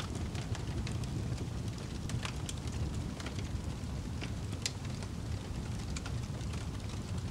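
Wood fire burning in a fireplace: a steady low roar with frequent sharp crackles and pops scattered irregularly, one louder pop a little past halfway.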